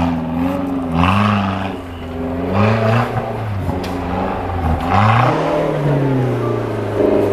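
Off-road 4x4's engine revving hard, its pitch climbing and dropping about three times as the driver works the throttle on the course.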